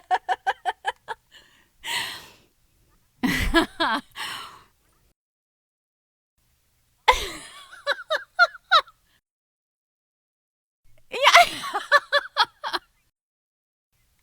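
Women's laughter: several short separate laughs, each a quick run of 'ha-ha' pulses or a breathy burst, with dead silence between them.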